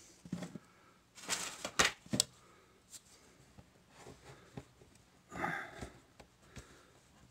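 Faint handling sounds of marzipan being pressed and shaped by hand on a work surface: a few light taps and clicks in the first couple of seconds, then a short breath about five seconds in.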